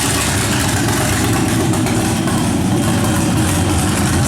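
GM 6.0L LY6 LS V8 with a stage 2 cam running steadily just after starting, at a fast idle.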